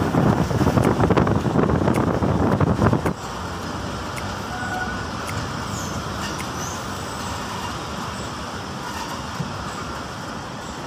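Moving passenger train heard from an open window: loud, gusty wind on the microphone for about the first three seconds, then a sudden drop to the steadier, quieter running noise of the coaches' wheels on the rails.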